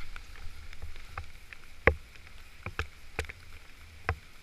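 A few scattered sharp clicks and knocks, the loudest about two seconds in, over a low rumble.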